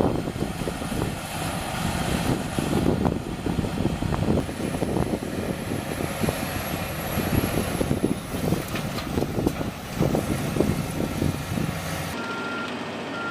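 Heavy earthmoving machinery working: a diesel engine running under load, with irregular clanks and knocks of steel parts and material.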